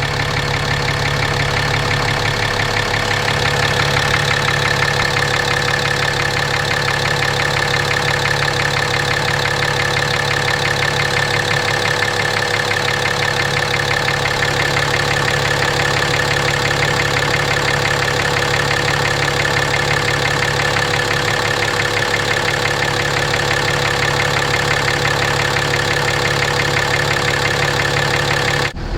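6.7-litre Cummins turbo-diesel inline-six in a 2017 RAM 2500 idling steadily, with a deep knock that the owner says it has always had. The oil lab finds the iron reading the only possible clue to its cause. The sound cuts off abruptly just before the end.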